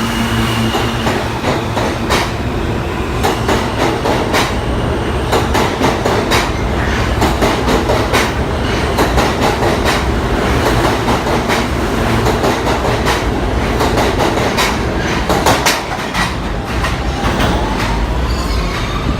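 New York City subway train running on the rails: a steady rumble with frequent clicks of the wheels over rail joints, and a rising whine near the end.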